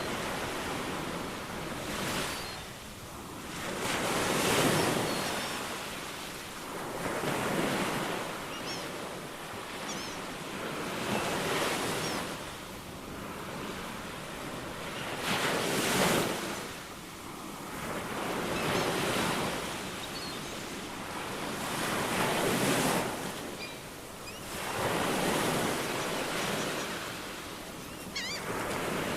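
Ocean waves washing in, surging and falling back every three to four seconds, with faint short bird chirps now and then.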